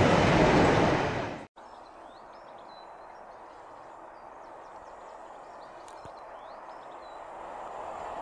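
Loud, even rumble and rush of a diesel-hauled train passing close by, cut off abruptly about a second and a half in. After that, quiet outdoor air with small birds chirping, and a faint low rumble that grows slightly near the end.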